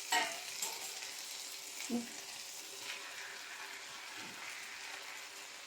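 Minced chicken and spaghetti sizzling in a hot pan with oil and a splash of water, a steady frying hiss. A few brief stirring or pan noises come through it, near the start and around two, three and four seconds in.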